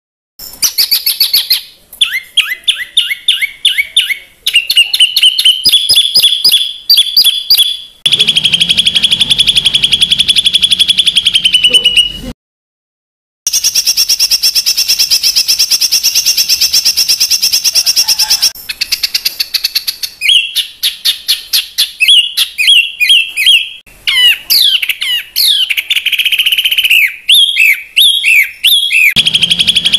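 Spliced recordings of songbird calls used as masteran training song: harsh, rapid repeated call phrases, long fast trills and downward-sweeping whistles. Each segment cuts off abruptly, with a brief silence just at the start and another of about a second near twelve seconds in.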